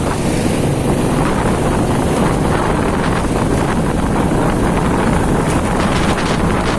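Motorcycle riding through city traffic: engine noise under heavy wind rushing over the microphone, loud and steady throughout.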